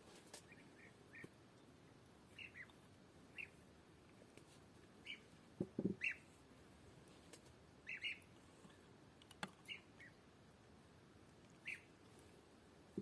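Birds chirping sparsely, short high calls every second or so, with one louder, lower call about six seconds in.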